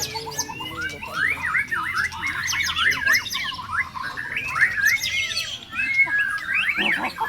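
White-rumped shama (murai batu) singing a fast, varied song of whistled notes sweeping rapidly up and down.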